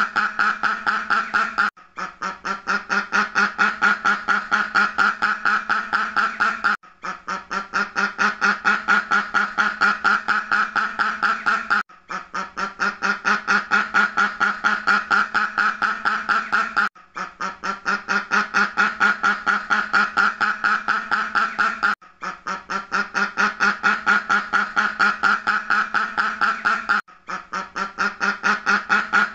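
Duck quacking in a rapid, continuous run of quacks, several a second. It is a looped recording: the same stretch of about five seconds repeats, with a brief drop-out between repeats.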